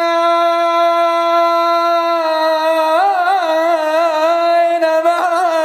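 A male munshid's solo chanting voice holding one long, steady note, then breaking into quick wavering melismatic turns on the same vowel from about two seconds in.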